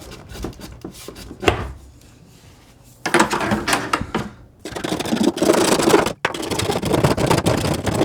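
A single knock about a second and a half in, then rough scraping and rubbing in two long stretches from about three seconds in, with a short break between them.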